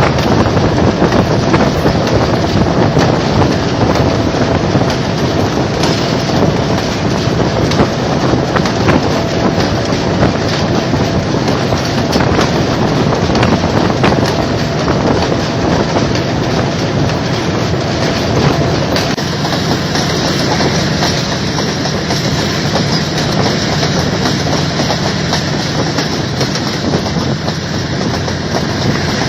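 Train running along the track: a steady, loud rumble of wheels on rail, with scattered clicks over it.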